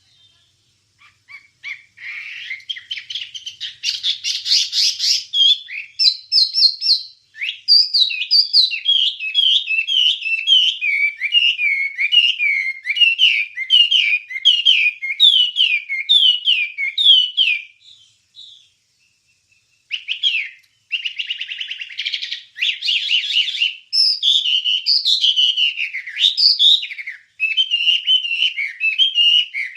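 Wambie bird singing a fast, chattering song of rapid repeated slurred notes, with a short break about two-thirds of the way through.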